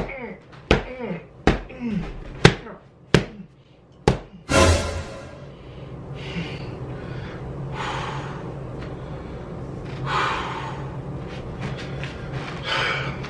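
A fist striking a handheld punching pad, about seven sharp smacks in the first four and a half seconds, with a short grunt after several of them. After that comes a steady low hum with a few soft swells.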